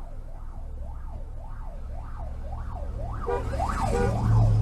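Emergency vehicle siren on a fast up-and-down yelp, about two sweeps a second, over a low vehicle engine rumble. It grows louder toward the end, where a buzzier second tone joins in.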